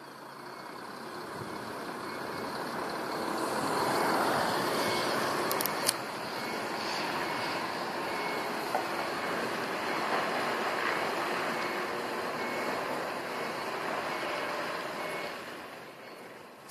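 Scania truck pulling away, its diesel engine and running noise building over the first few seconds, holding, then fading near the end. A high beep repeats at a regular pace throughout, like a vehicle's reversing or warning alarm.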